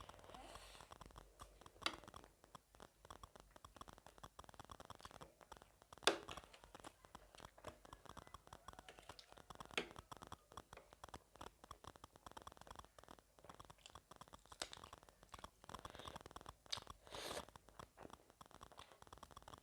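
Quiet close-miked chewing of gilo chatpate, a spiced puffed-rice snack: continuous soft crunching and crackling, with a few sharper clicks along the way.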